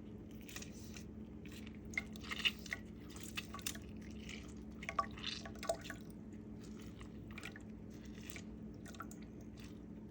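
A lemon being squeezed by hand, with small wet squishes, drips and taps coming mostly in the first half, over a steady low hum.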